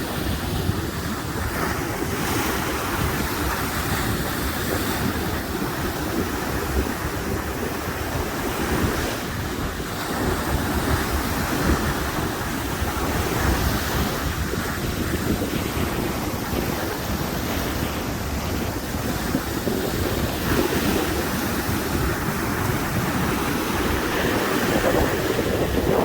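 Sea waves breaking and washing on the shore, with wind blowing and buffeting the microphone.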